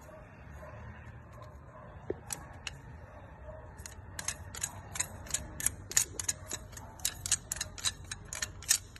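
A run of sharp, high clicks, about five a second, starting a few seconds in and growing denser, over a low steady hum.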